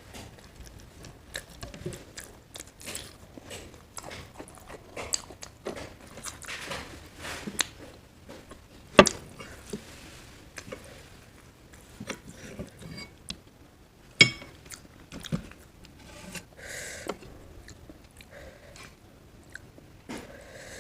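Chewing and biting while eating creamy paneer curry with roti: irregular wet smacks and small clicks, with two sharper clicks, one near the middle and one about two-thirds through.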